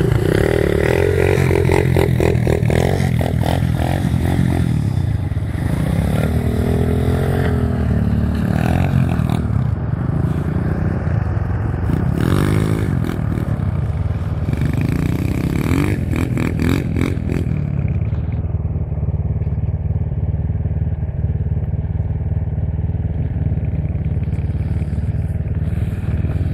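Irbis TTR125 pit bike's 125 cc single-cylinder four-stroke engine revving and riding off across snow, its note rising and falling repeatedly with the throttle. Its higher sound thins out after about eighteen seconds as the bike moves farther away, over a steady low rumble.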